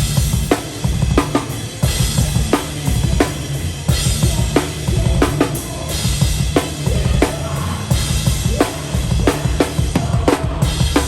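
A hardcore band's drum kit played loud at close range, with snare and kick drum hits about every two-thirds of a second and crashing Meinl cymbals, over the dense low rumble of the rest of the band.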